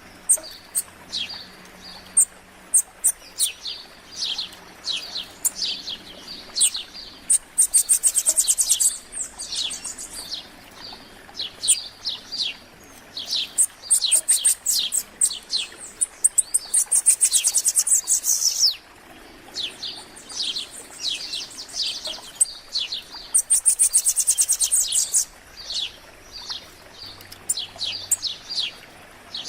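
Several wild songbirds singing together: a steady run of short, high, down-slurred chirps, broken three times by very high, rapid trills of about two seconds each.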